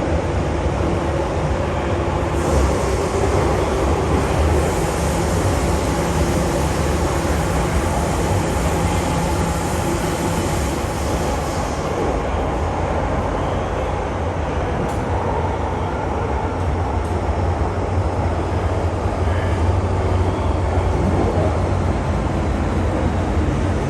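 MTR M-Train underground metro train running between stations, heard from inside the car: a steady rumble of wheels on rail and running gear. A higher hiss comes in a couple of seconds in and drops away about halfway through, and faint whining tones come and go later.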